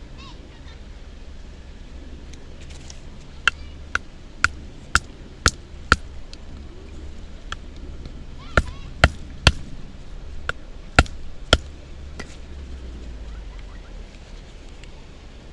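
Wooden baton striking the spine of a Mora knife driven into a log (batoning): two runs of sharp knocks, about two a second, with a pause between. The blade is stuck at a knot, and the log does not split.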